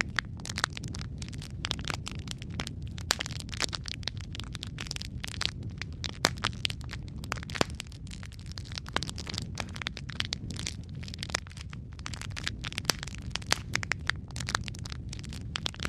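Wood fire burning steadily in a fireplace, with a constant low rumble and frequent irregular crackles and sharp pops.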